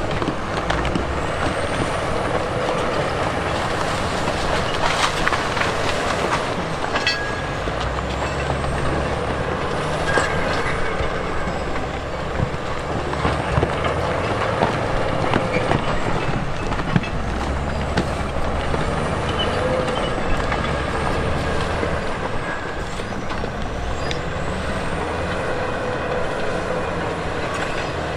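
Heavy earthmoving machinery at work: a diesel engine running steadily, swelling and easing every few seconds, with scattered knocks and clanks.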